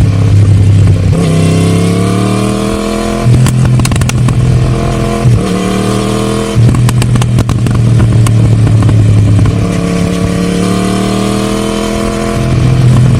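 Yamaha MT-10 Gen 2's crossplane inline-four, with a Scorpion decat pipe and the stock silencer, accelerating hard through the gears. The pitch climbs, drops briefly at each upshift about three and five seconds in, then climbs again. After that it holds steadier and rises slowly before settling near the end, with scattered sharp cracks through the middle.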